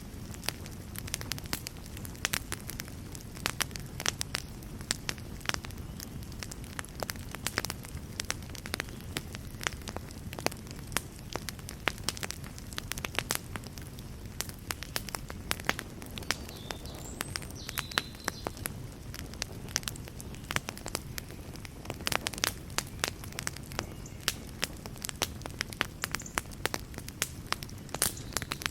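Wood fire burning in a fireplace, crackling and popping: many sharp, irregular pops, several a second, over a steady low rumble of flame.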